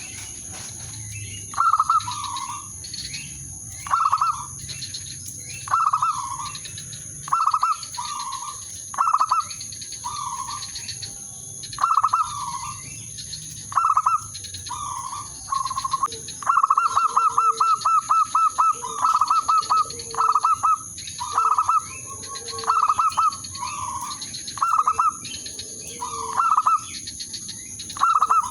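Zebra dove (perkutut) cooing in short phrases about every two seconds, with a rapid run of pulsed coo notes a little past halfway. This is the calling of a lure bird meant to provoke rival doves. A steady high-pitched whine runs underneath.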